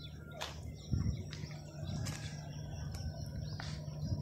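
Birds chirping in short, sharp calls every second or two over a steady low hum, with a couple of low thumps.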